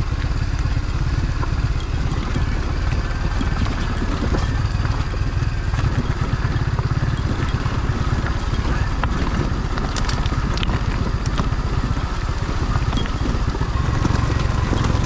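Kawasaki W175's air-cooled single-cylinder engine running steadily as the motorcycle is ridden, a rapid even beat of exhaust pulses.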